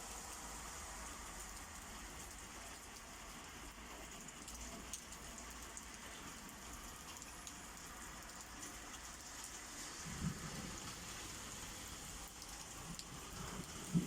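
Steady rain falling, with scattered drips and two short low thuds, one about ten seconds in and one near the end.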